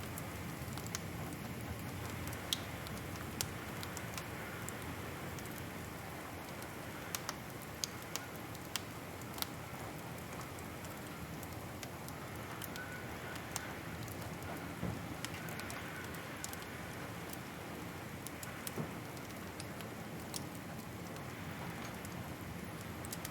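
Wood fire crackling in a fireplace: irregular sharp pops and snaps scattered over a steady soft hiss.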